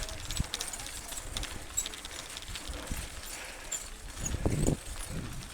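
Mountain bike rattling and clattering over a rough trail: a run of rapid clicks and knocks, with a louder low rumble about four and a half seconds in.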